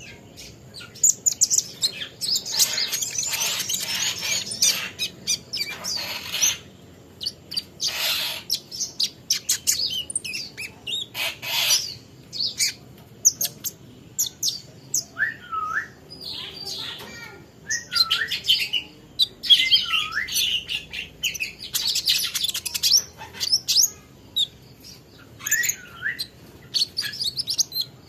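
A kolibri ninja (a sunbird) chirping and twittering in rapid, high, sharp notes, with a few hooked calls that sweep downward in the middle and near the end.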